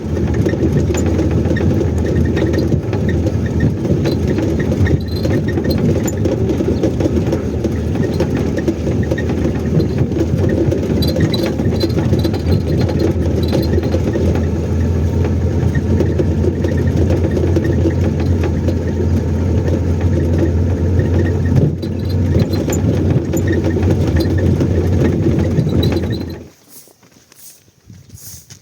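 A car's engine and road noise while it is being driven: a steady low rumble that cuts off abruptly about 26 seconds in.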